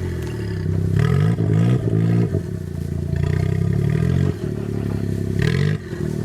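Suzuki Jimny JA11's engine revving hard in short blips, its pitch climbing and dropping back again several times as it drives a rough off-road section, with a sharp knock about four seconds in.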